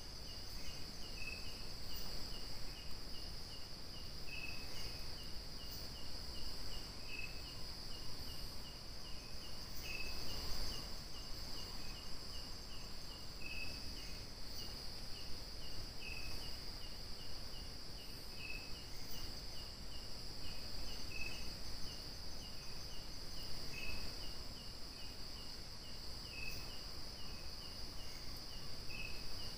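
Insects calling, crickets among them: a steady high buzzing chorus. Over it a short chirp repeats about two or three times a second, and a louder chirp comes every two to three seconds. A brief soft rustle sounds about ten seconds in.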